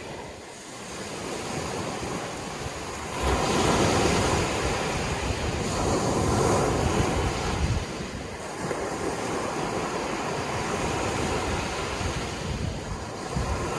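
Sea waves washing onto the shore in a continuous surf. A wave surges in about three seconds in and stays loud for several seconds before easing. Wind buffets the microphone with a low rumble.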